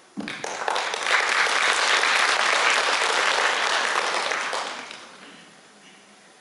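Audience applauding after a recited poem: the clapping starts suddenly, holds for about four seconds, then dies away.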